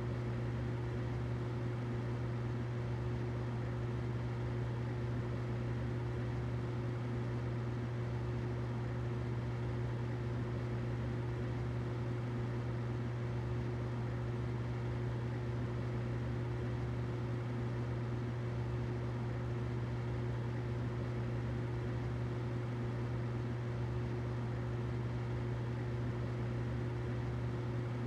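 Humidifier running steadily: an even low hum with a faint steady tone above it and a soft hiss, unchanging throughout.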